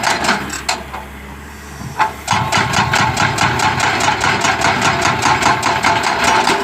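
Kato excavator's hydraulic breaker hammering in a rapid, even stream of blows, with the excavator's engine running underneath. The hammering pauses briefly and starts again about two seconds in.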